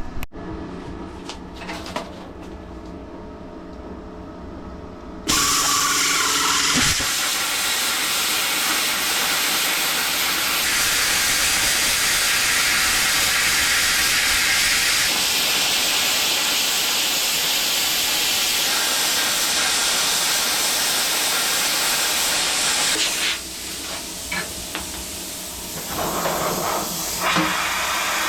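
Plasma cutter cutting steel freehand: about five seconds in, the torch fires with a sudden loud, steady hiss of air and arc, runs for about eighteen seconds and cuts off abruptly. A low steady hum comes before it.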